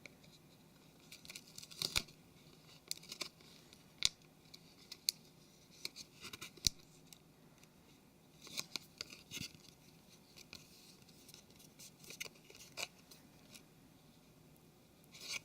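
Faint, scattered light clicks and short scratches of small parts being handled: the docking-port flex cable's pins being pressed through a plastic phone case, with small clusters of clicks around the middle and near the end.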